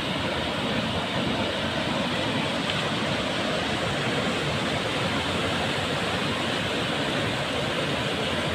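Water rushing steadily down between large boulders, a continuous even roar of a stream or cascade.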